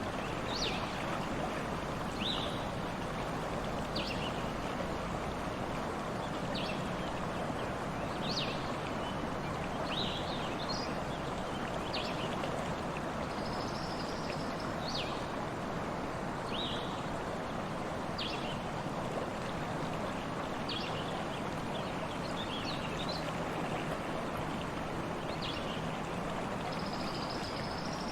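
Stream flowing steadily, with a small bird calling over it in short, high, downward chirps every second or two and a couple of longer buzzy notes.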